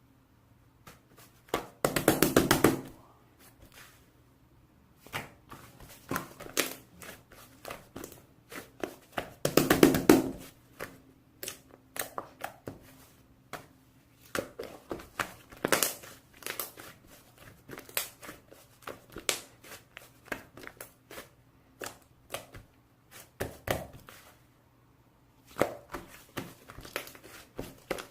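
Handling noise: irregular clicks and taps, with two louder bursts of rustling and crinkling about two and ten seconds in.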